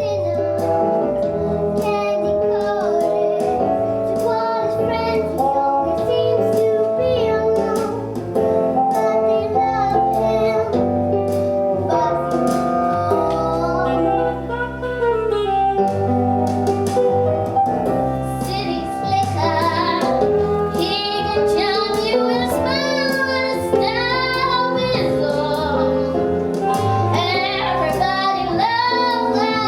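A children's chorus singing a song over piano-led musical accompaniment with a steady bass beat; the voices grow fuller about two-thirds of the way through.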